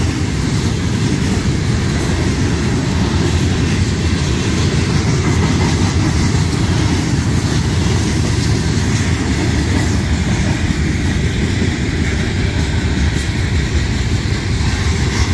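Freight cars of a Union Pacific manifest train rolling past at speed: a steady, unbroken noise of steel wheels on rail, heaviest in the low range.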